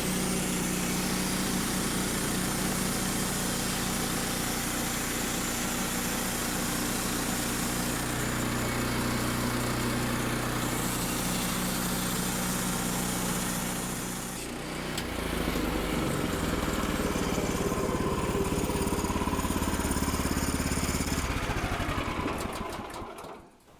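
Woodland Mills portable bandsaw sawmill running, its gas engine driving the blade through a cut. The engine note changes about fifteen seconds in, and the sound dies away sharply near the end.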